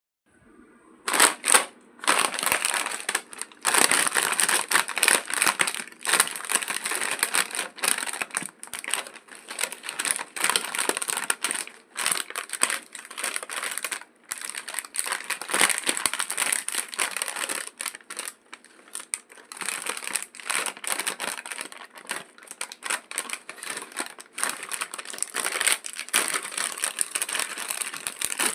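Crinkling and crackling of a masala papad snack packet being handled, in irregular bursts with short pauses.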